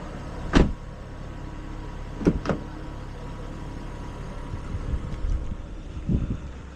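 A car's engine idling with a steady low hum, broken by a sharp knock about half a second in, two more about two seconds in, and another near the end.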